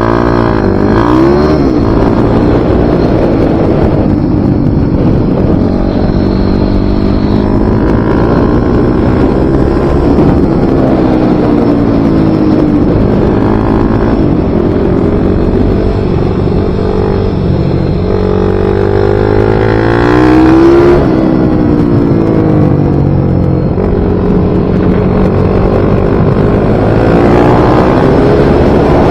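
Small racing motorcycle engine, of the MiniGP or pit-bike kind, run hard round a circuit. The pitch climbs under acceleration and drops sharply at gear changes and braking, again and again.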